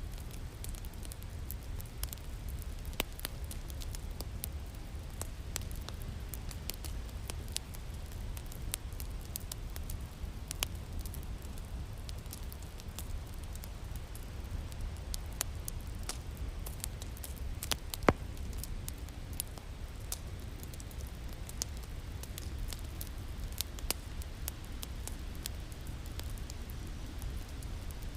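Wood fire crackling in a fireplace: a steady low rumble with scattered sharp pops and snaps, the loudest pop about eighteen seconds in.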